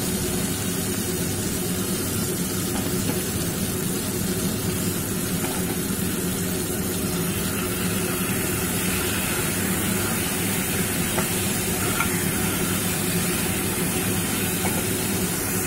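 Marinated chicken pieces sizzling steadily in hot mustard oil and spice paste in a kadai, turned now and then with a spatula, over a steady low hum.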